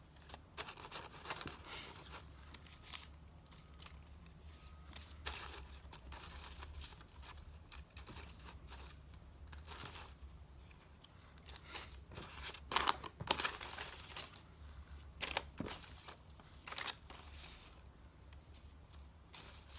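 Paper rustling and crinkling as magazine pages and paper cut-outs are handled and shuffled, with a few sharp clicks and snaps, loudest in a cluster in the second half.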